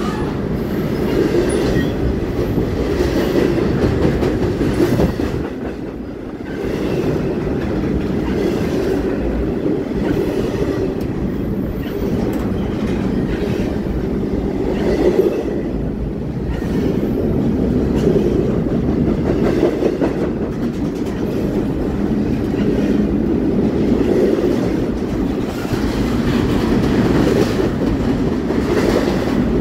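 Double-stack intermodal freight train passing close by: a steady rumble of steel wheels on rail with clicking as wheels cross rail joints, easing briefly about six seconds in.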